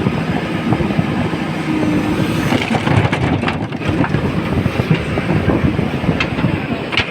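Heavy diesel machinery running steadily, with a few sharp metallic clanks about three to four seconds in and again near the end.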